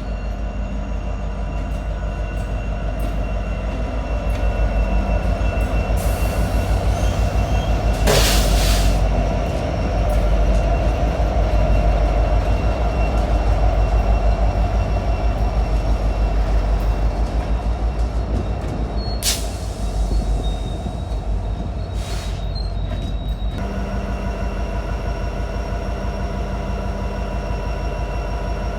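Freight train rolling past: a steady low rumble of railcars and wheels on the rails, with faint high wheel squeal. A couple of short louder bursts come about eight and nineteen seconds in.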